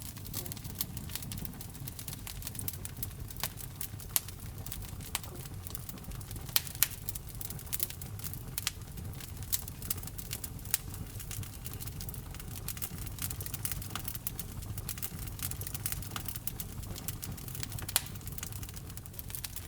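Wood fire burning in a fireplace: a steady low rumble of flames under constant irregular crackling, with a few louder pops standing out.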